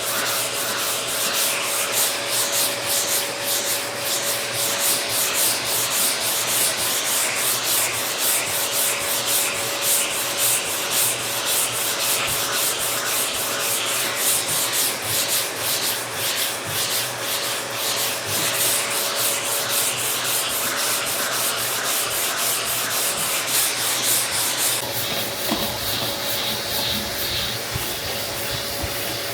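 Sandpaper on a sanding block rubbed quickly back and forth over a car body panel, a rhythmic scraping hiss. The strokes stop about 25 seconds in, leaving a steadier hiss. A faint steady hum runs underneath.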